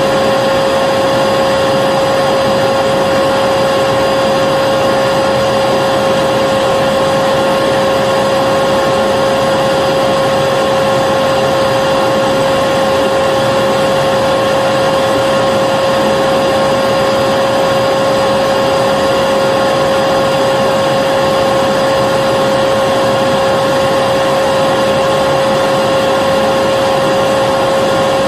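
Vacuum cleaner running steadily, a constant rushing hiss with a strong, even high-pitched whine from the motor.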